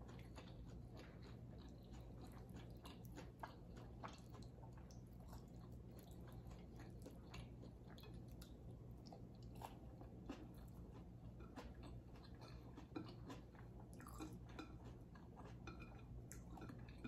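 Quiet close-up chewing of fried fish, with many small, irregular mouth clicks and a few soft crunches, over a steady low hum.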